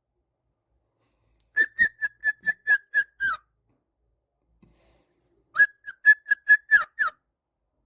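A bird giving quick runs of short, clear whistled notes, all on about the same pitch: one run of about eight notes, then after a pause another of about seven.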